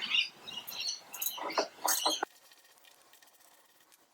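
Quick plastic clicks and scrapes as the air filter cartridge of a Victa Pace lawn mower is worked out of its housing. The sound stops suddenly a little over two seconds in, and near silence follows.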